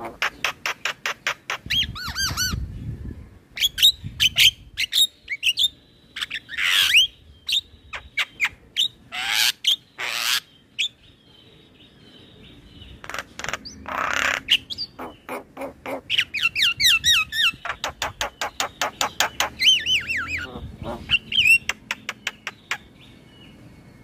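Male Javan myna (jalak kebo) singing: fast rattling trains of short notes and looping whistled phrases, broken by several loud, harsh squawks, one around a quarter of the way in and two more in the middle. The song thins out near the end.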